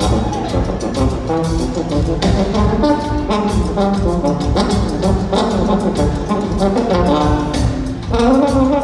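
Live rock band playing an instrumental passage, with a brass horn section carrying the melody over bass and drums with a steady beat.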